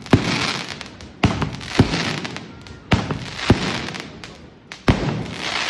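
Fireworks display: about six sharp bangs at uneven intervals, each followed by a crackling hiss that fades away.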